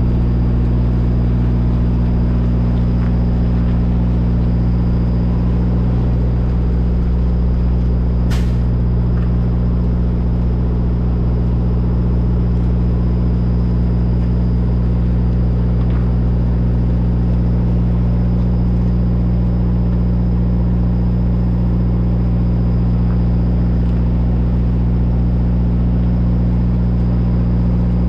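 Semi truck's diesel engine running at a steady drone, with one sharp click about eight seconds in.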